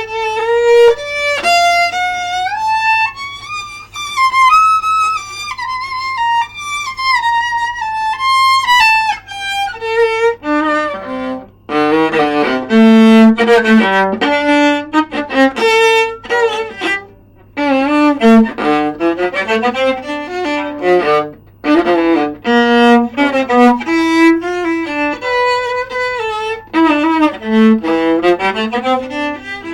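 Solo viola played with the bow: a slow, sustained melody for about the first ten seconds, then shorter separated notes in a lower register with brief pauses between phrases.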